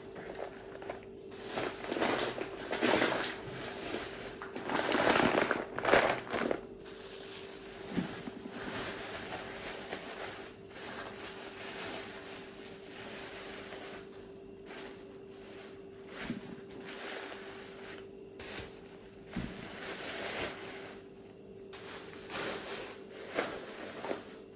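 Household handling noises: irregular rustling and crinkling with a few short knocks, over a faint steady hum.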